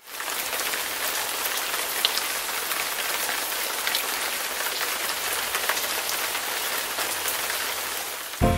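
Steady rain falling, with scattered drops tapping on a surface.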